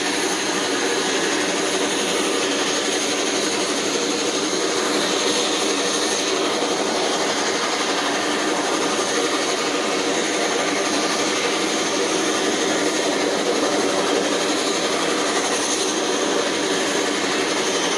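Bombardier Dash 8 Q300 turboprop engines and propellers running steadily: a dense drone with a high, steady whine over it.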